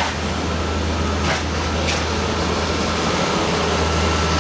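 Parking tram running along, heard from on board: a steady low engine hum under a wash of rolling noise, with two brief clicks or rattles about a second and a half in.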